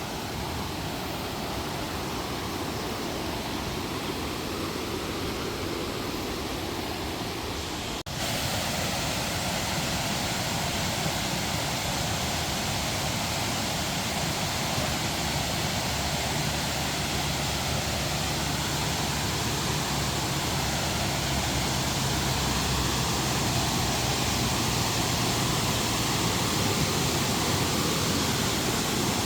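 Waterfall: a steady rush of falling water that breaks off for an instant about eight seconds in and comes back a little louder.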